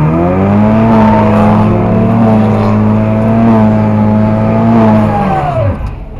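Cadillac car engine held at steady revs while the car turns on the lot, heard from inside the cabin. The revs fall away sharply near the end.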